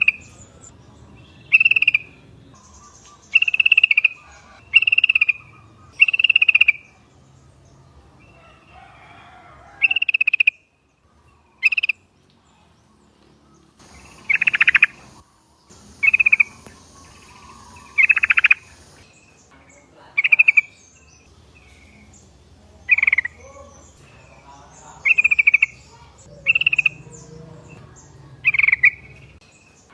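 Yellow-vented bulbuls (trucukan) calling: short phrases repeated every second or two, with a brief lull about halfway through.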